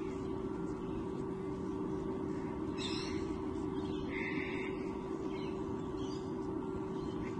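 A few short bird calls, about three and four seconds in, with fainter ones later, over a steady low hum.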